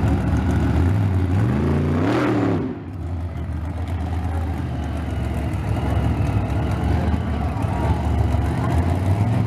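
Monster truck engine running loud, revving up once about two seconds in with a rising pitch that cuts off abruptly, then settling back to a steady run.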